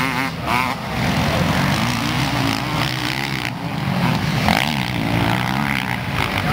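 Dirt bike engines revving up and down as motocross bikes ride the track, the engine note rising and falling over and over with more than one bike heard at once.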